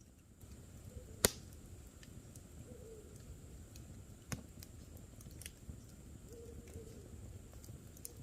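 Campfire burning with a low rustle and sharp crackling pops, the loudest about a second in and another at about four seconds. An owl hoots faintly and low a few times.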